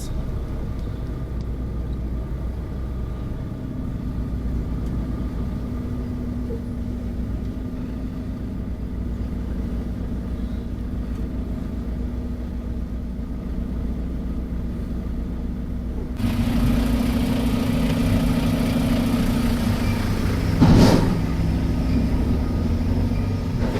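Volvo semi truck's diesel engine idling steadily, a low drone that grows louder and fuller about two-thirds of the way through. A brief loud burst of noise cuts in once near the end.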